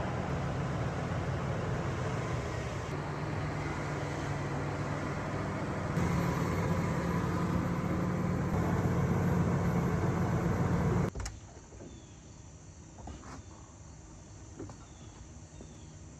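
A vehicle engine running steadily under way, its note shifting twice and getting louder partway through. It cuts off abruptly about eleven seconds in, leaving a much quieter background with a few faint clicks.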